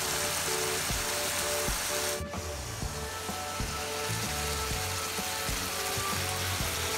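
Ginisang talong (eggplant sautéed with dried fish) sizzling in a wok as it finishes cooking, under background music with a steady melody. The sizzle breaks off briefly about two seconds in.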